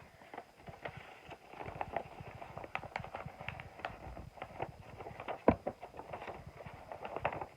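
A sheet of paper being folded and creased by hand into a paper airplane wing: a run of small irregular crackles and rustles, with one sharper click about five and a half seconds in.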